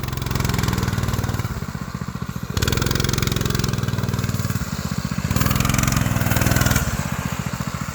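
Small single-cylinder engine of a Coleman mini bike catching on the first pull of its recoil starter and running, its speed stepping up and back down a few times as the throttle is blipped.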